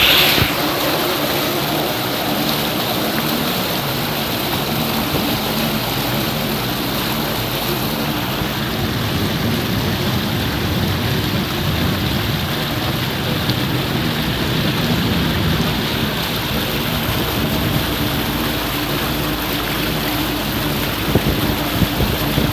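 Small motorboat's engine running steadily during a river crossing, over the steady rush of water.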